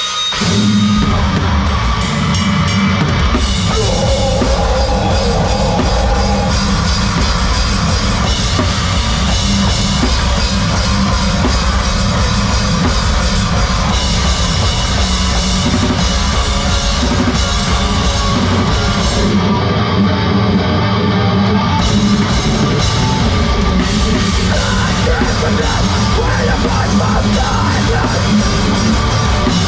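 A heavy rock band playing live at full volume: distorted guitars, bass and pounding drum kit with steady cymbals, starting a song. About twenty seconds in, the cymbals and the deepest bass drop out for about two seconds before the full band comes back in.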